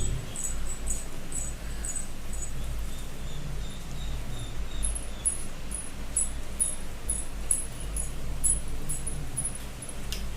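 Silver anklets with small bells jingling in a steady rhythm, about two to three jingles a second, as the wearer moves her feet, over a steady low hum.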